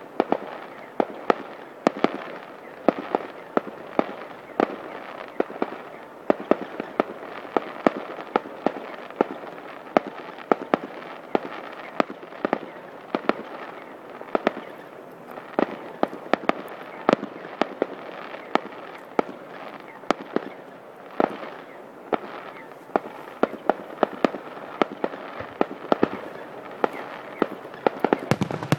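Display fireworks bursting in the air: an unbroken, irregular run of sharp bangs and cracks, two or three a second, over a steady background rumble.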